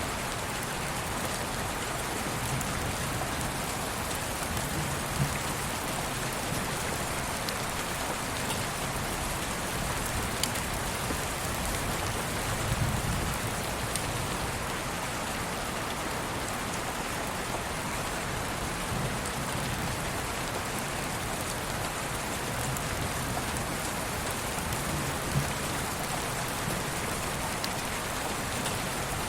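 Steady rain falling, an even hiss with scattered drop ticks and a brief low rumble about halfway through.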